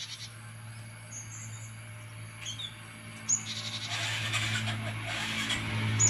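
A few short, high chirps from cinereous tits. Road traffic noise swells from about four seconds in over a steady low hum.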